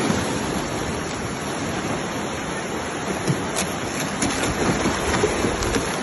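River water rushing and splashing around a bamboo raft, a steady noise with a few light clicks in the second half.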